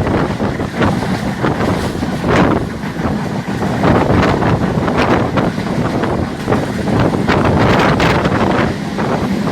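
Wind buffeting the microphone over the continuous running noise of a moving train, with irregular clattering throughout.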